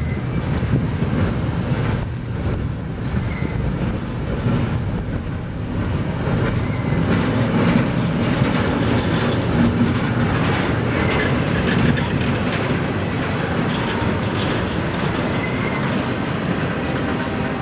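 Double-stack intermodal freight train rolling past: a steady rumble and clatter of the cars' steel wheels on the rails.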